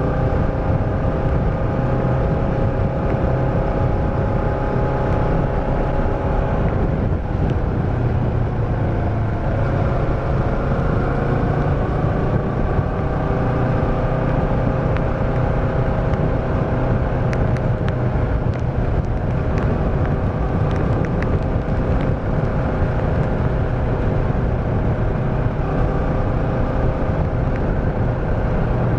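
Motorcycle engine running under way, with steady road and wind rumble, heard through a microphone in the rider's pocket. The engine note dips about seven seconds in, then climbs back and holds steady.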